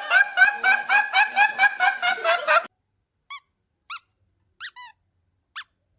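Rapid, rhythmic laughter that cuts off suddenly just under three seconds in, followed by a few short, high squeaky chirps about a second apart.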